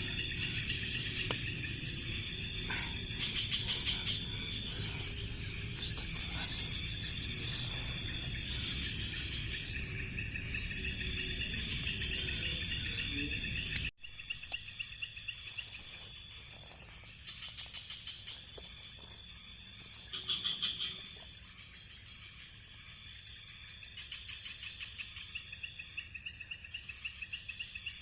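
Night insect chorus of crickets and other insects: steady high-pitched buzzing with repeated pulsing trills. About halfway through the sound cuts and drops in level; a low rumble under the chorus in the first half disappears, and the chorus carries on.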